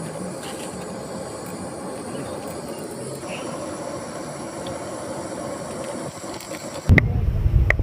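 A steady hiss, then about seven seconds in a sudden loud low rumble with a few sharp clicks.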